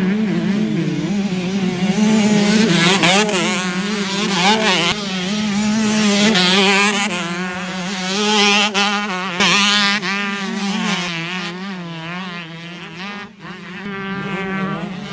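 Two-stroke motocross bikes racing, engines revving up and falling back over and over as the riders work the throttle and shift, with more than one bike heard at once.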